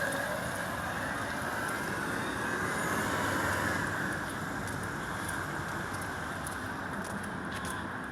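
Road traffic: vehicles passing in a steady wash of engine and tyre noise, easing off slightly after about four seconds.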